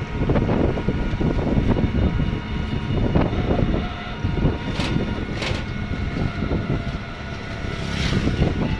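Steady low rumble of a moving vehicle, with three brief high-pitched noises about halfway through and near the end.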